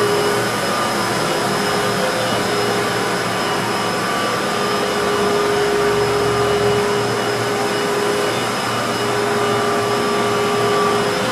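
HAAS VF-2 vertical machining center running its warm-up program: a steady whirring hum with a few steady whining tones over it.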